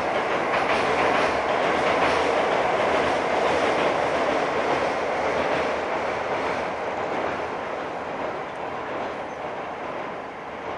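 Electric commuter train crossing a steel truss railway bridge, its wheels rumbling and clattering rhythmically over the rail joints. The sound slowly fades as the train moves away.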